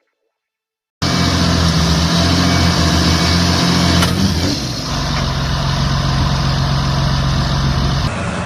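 About a second of silence, then a heavy vehicle's engine running steadily and loudly, its note shifting a little after about four seconds.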